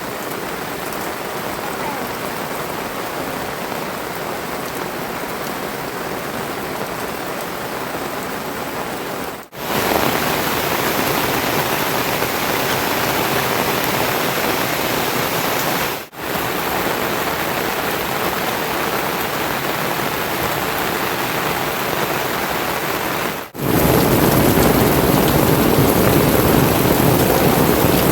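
Heavy rain falling steadily, in four stretches broken by brief dropouts; the last stretch is louder and fuller.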